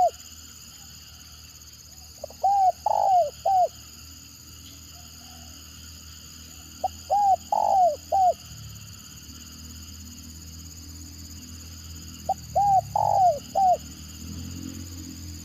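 Spotted dove (tekukur) giving its stuttering 'gagap' coo: three phrases of about four short, arched cooing notes, one roughly every five seconds. Steady high-pitched insect-like tones sit behind it, and a low hum builds near the end.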